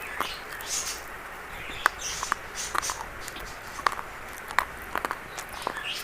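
Irregular sharp crunches and crackles of brittle brown 'biscuit' chalk being crunched, over a steady hiss.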